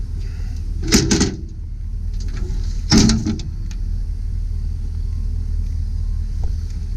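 Two loud metal clunks from the truck's rear liftgate, about a second apart at one and three seconds in, over a steady low rumble.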